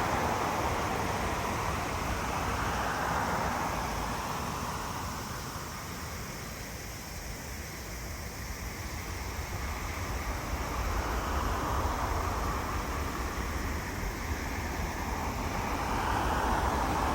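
Boeing 787-9 jet engines heard from a distance, a steady rushing noise that dies down a little in the middle and swells again toward the end.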